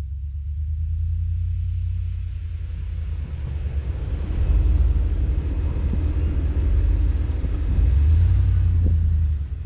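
4x4 truck climbing a steep snowy grade under load: a steady low engine rumble, with a wash of noise that builds about three seconds in and swells again near the end.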